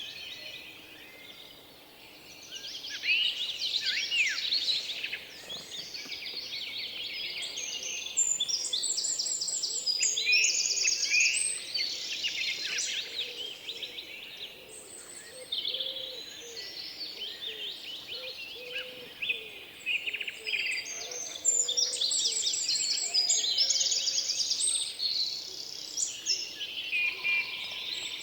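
Several small songbirds singing and chirping at once: a dense, overlapping chorus of high, rapid trills and chirps, swelling and easing by turns.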